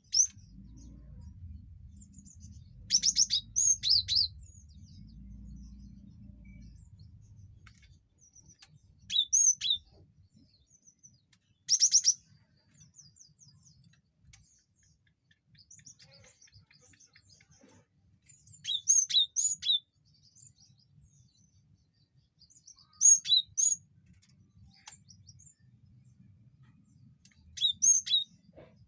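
Cinereous tit (gelatik batu) calling: about seven short phrases of sharp, high chirps, each a second or less, separated by pauses of a few seconds.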